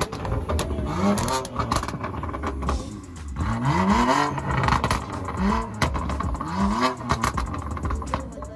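Car engine revved repeatedly through a loud aftermarket exhaust, in short blips, each rising and falling in pitch, roughly one every second or two, over the steady rumble of idling engines.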